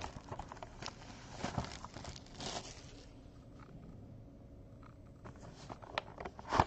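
Light rustling and crinkling of card packaging and plastic sleeves being handled, with scattered small clicks and taps; quieter in the middle, busier again near the end.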